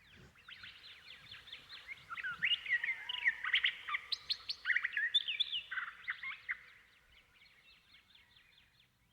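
Birds chirping in many quick, overlapping calls that swell to a peak in the middle and then fade away.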